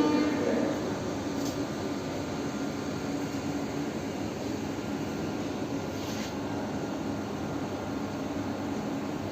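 Railway station background noise: a steady mechanical drone with a low hum that stays level throughout.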